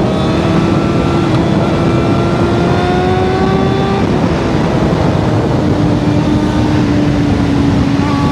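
Sportbike engine running with its exhaust taken off, riding at steady throttle with the note slowly climbing, then dropping as it upshifts about four seconds in and holding steady after. Heavy wind rush on the helmet microphone throughout.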